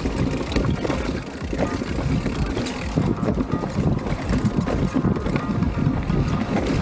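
Wind buffeting the action camera's microphone while riding a mountain bike, a choppy low rumble with scattered clicks and rattles from the bike on the trail.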